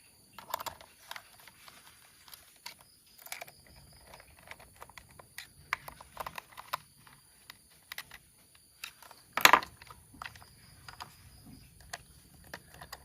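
Plastic toy train parts being handled and fitted together by hand: irregular light clicks and taps, with one louder clatter about nine and a half seconds in.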